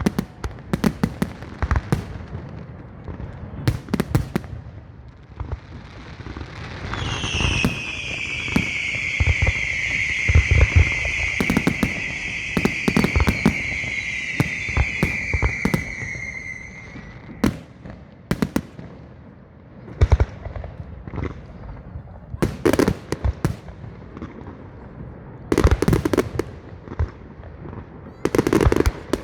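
Fireworks salute: shells bursting in many sharp bangs and cracks, scattered unevenly. Midway, a long whistle lasts about ten seconds, slowly falling in pitch.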